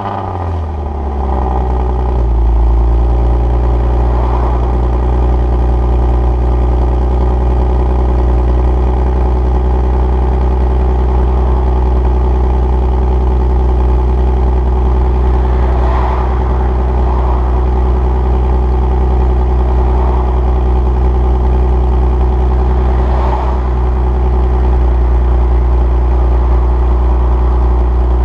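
Nissan Maxima's 3.5 L VQ35DE V6 idling just after a cold start through equal-length headers, stock catalytic converter and a resonator-deleted exhaust with muffler. The revs drop in the first couple of seconds as the start-up flare settles, then hold at a steady fast cold idle.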